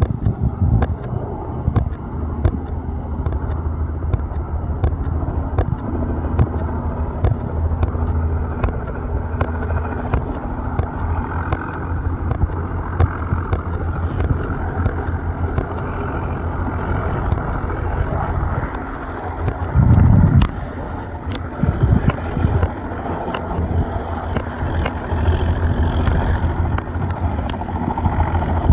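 Juno HT1 (Airbus H135) helicopter flying, its rotor giving a steady low thrum with a fast pulse. Gusts of wind buffet the microphone about 20 seconds in.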